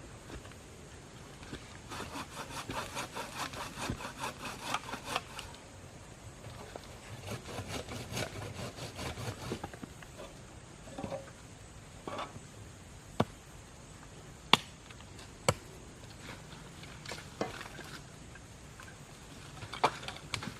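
Wood being cut with a hand saw in two spells of quick, even strokes, followed later by a few sharp single knocks.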